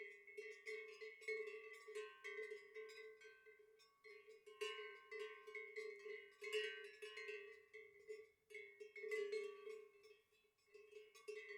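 Several bells clanking irregularly, their strokes overlapping with no steady beat.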